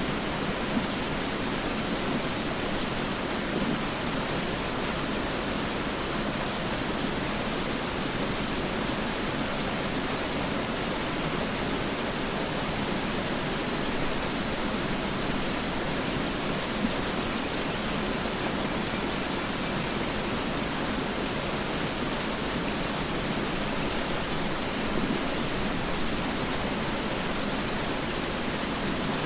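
Mountain river rushing steadily, an even, unbroken roar of flowing water.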